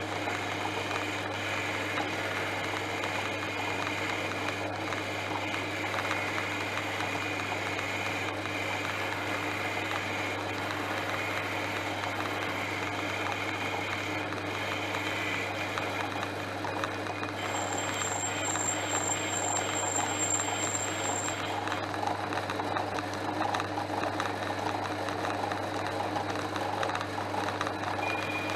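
Portass Model S lathe running steadily, its motor humming. A high thin whine pulses for about four seconds a little past the middle.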